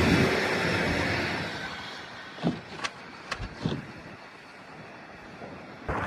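A passing vehicle's engine and road noise fading away over the first couple of seconds, then a quieter stretch with a few short sharp knocks and clicks.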